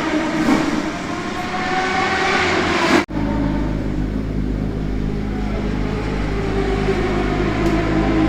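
Racing motorcycle engine with its note falling as the revs drop. Just after three seconds it cuts abruptly to a steadier, lower engine note.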